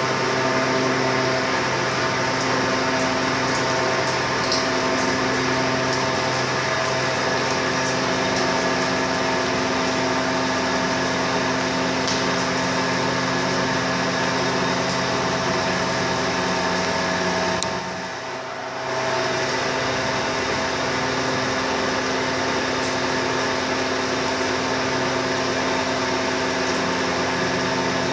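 CNC lathe running steadily while turning a metal part, a mechanical hum with several held tones over a hiss; it drops out briefly about two-thirds of the way through, then resumes.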